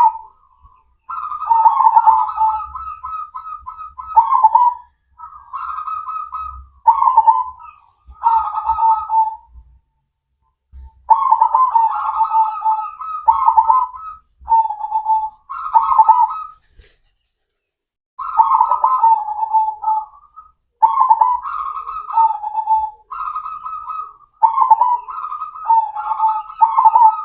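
Zebra dove (perkutut) singing its cooing song, phrase after phrase with short pauses between them, and two longer breaks partway through.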